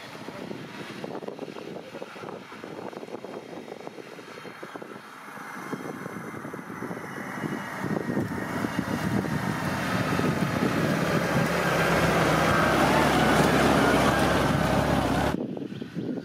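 Off-road 4x4 engine running hard, growing steadily louder over several seconds, then cutting off abruptly near the end.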